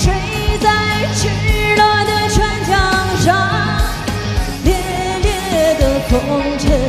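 A woman singing a Chinese pop song with opera-style ornaments over a band with a steady drum beat, ending on a long held note that falls near the end.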